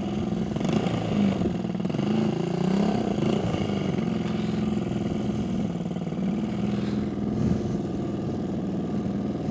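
Motorcycle engine running at low revs, its pitch wavering with small throttle changes in the first few seconds, then settling to a steady idle.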